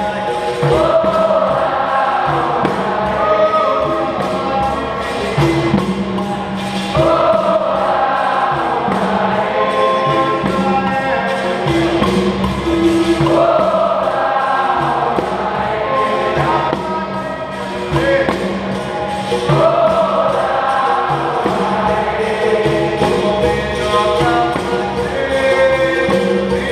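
Capoeira Angola roda music: a group sings the chorus response in phrases that return about every six seconds, over a steady low drone of berimbaus and regular hand-percussion strokes.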